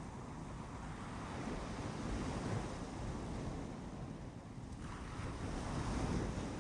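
Ocean surf on a beach: waves breaking and washing in, swelling about two seconds in and again near the end, with a sudden rise of hissing foam a little before five seconds.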